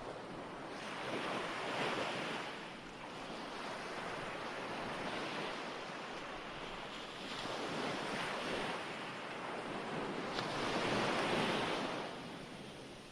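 Recorded ocean waves washing onto a shore, swelling and receding in slow surges every few seconds, played as a sleep background track.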